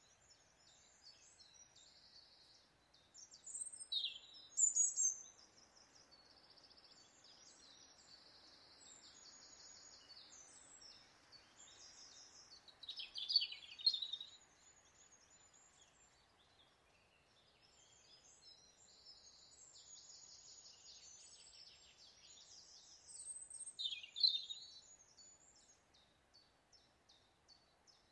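Woodland birdsong: a bird sings a loud song phrase three times, about ten seconds apart, over continuous high chirping and trilling.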